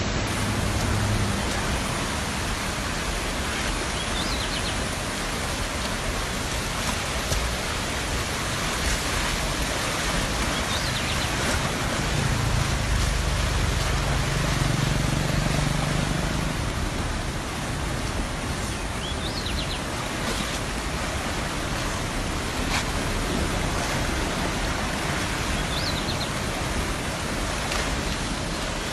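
Steady rushing noise of water, with a low hum near the start and again in the middle, and a few faint short high chirps.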